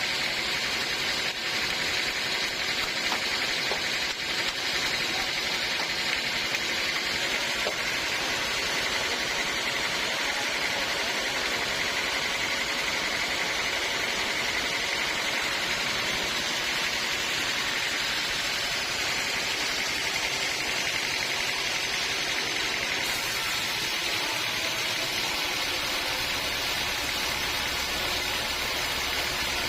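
Sawmill machinery running steadily, a continuous hissing machine noise. The low end grows heavier near the end.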